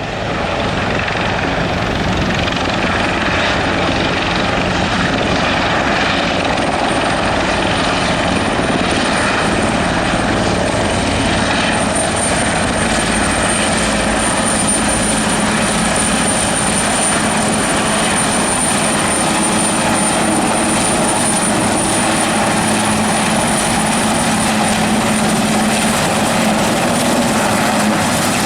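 Aerospatiale AS332L1 Super Puma helicopter running, loud and steady: a dense rotor and engine noise with a thin high turbine whine on top that edges up in pitch about halfway through.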